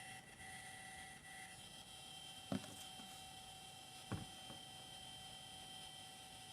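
Zenmuse H3-3D gimbal giving its abnormal sound: a faint steady high-pitched whine made of several tones, with a pulsing higher tone that stops about a second and a half in. Two sharp clicks come about a second and a half apart near the middle.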